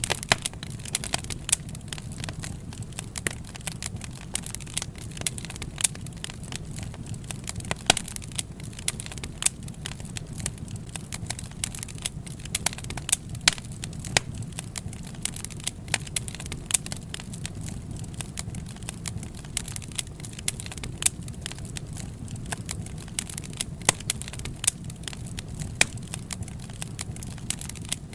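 Wood fire burning, with frequent sharp crackles and pops over a steady low rumble of flames.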